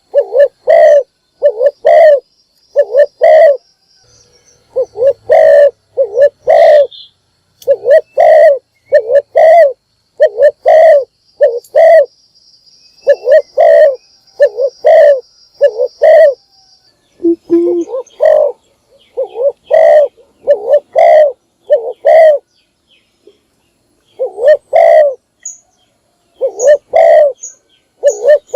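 Spotted dove cooing loudly and repeatedly: short series of deep coo notes, a few to a second, with brief pauses between series, and faint high chirps from small birds.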